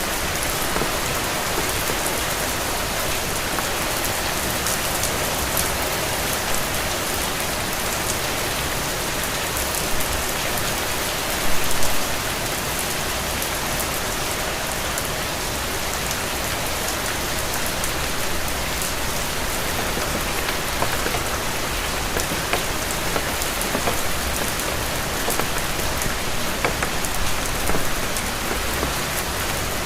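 Steady rain falling, an even hiss with scattered sharp drop taps, growing briefly louder about twelve seconds in.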